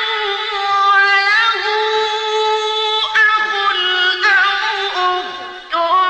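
A male Quran reciter's voice holding long, ornamented notes in melodic mujawwad-style recitation, with the pitch turning at the ends of phrases and a short break for breath near the end.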